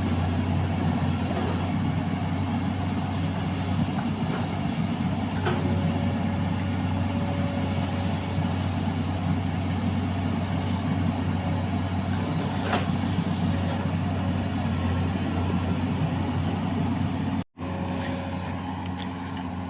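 Excavator's diesel engine running steadily, a low hum with a few faint knocks.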